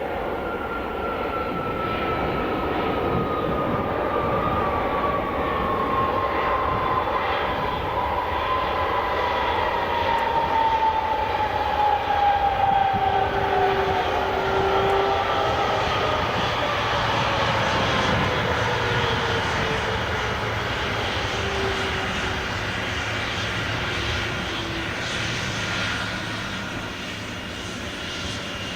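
Boeing 777-200ER twin-jet landing past the spotter: a steady engine roar with a whine that glides slowly down in pitch as it passes. The roar is loudest about halfway through, then fades.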